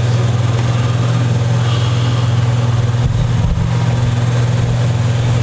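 A steady low hum, even in level throughout.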